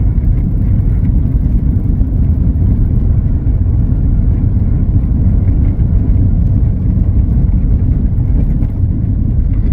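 Steady low drone of a Volkswagen Kombi camper van's engine and road noise, heard from inside the cab while driving at an even pace.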